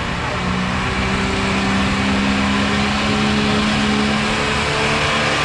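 Super stock diesel pulling truck's engine running hard under load, a loud, steady drone whose pitch creeps slightly upward.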